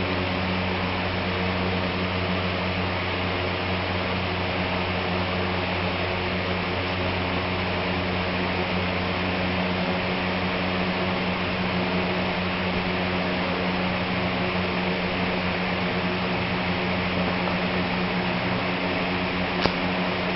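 Steady mechanical hum with an even hiss, as from a running fan or motor, with one faint click near the end.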